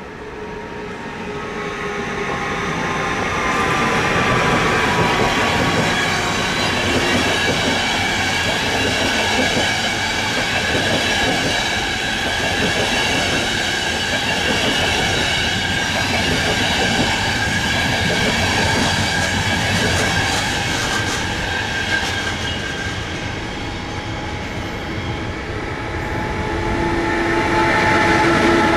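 An ÖBB electric locomotive and its train of passenger coaches roll through the station, with wheel-on-rail noise and steady high tones over the rumble. The sound builds over the first few seconds. Near the end it grows louder again as a container freight train behind a Siemens Vectron electric locomotive comes in.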